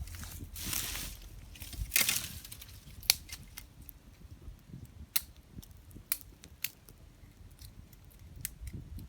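Wood campfire crackling, with sharp single pops at irregular intervals. Two brief rustling crunches come in the first two seconds.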